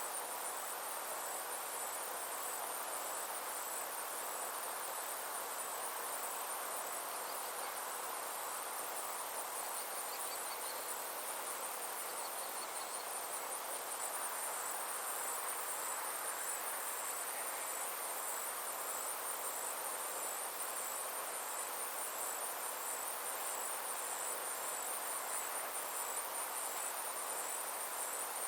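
Summer insects trilling continuously, a high, rapidly pulsing buzz, over a steady rushing hiss.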